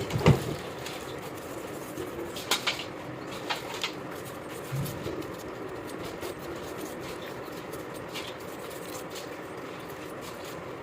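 Scattered sharp clicks and knocks over a steady background hum, the loudest just after the start, then several more in the first half.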